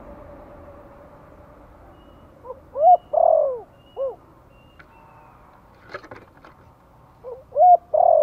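Spotted dove cooing: a phrase of four coos, the middle one longest, about two and a half seconds in, and the same phrase again near the end. A few faint clicks come between the two phrases.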